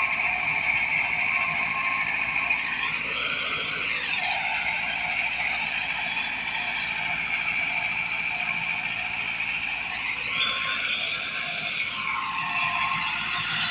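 Massey Ferguson 375 tractor's diesel engine running steadily under work. Its engine note rises and then falls back twice, about three seconds in and again about ten seconds in.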